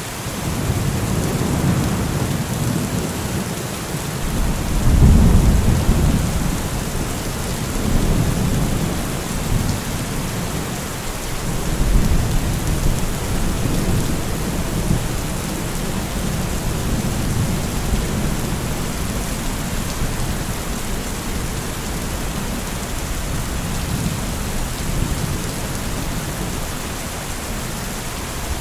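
Heavy rain falling steadily with low rolling thunder rumbling through it, swelling loudest about five seconds in and again near the middle.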